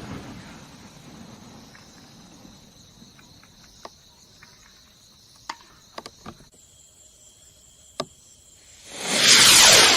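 Klasek XXXL firework rocket: the rumble of a burst dies away, then crickets chirp steadily with a few sharp distant pops. Near the end another rocket goes up with a loud rising whoosh.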